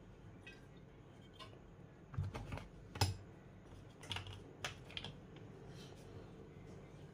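Irregular light clicks and taps of small hard objects being handled, bunched between about two and five seconds in, over a low steady hum.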